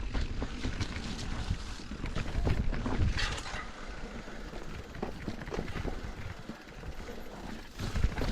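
Mountain bike moving over a rough trail: irregular knocks and rattles over a low, steady rumble, with a brief hiss about three seconds in.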